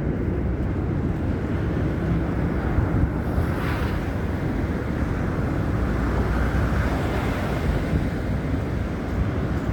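Wind buffeting a handheld phone's microphone: a steady low rumble, with a brief hissing swell about three and a half seconds in.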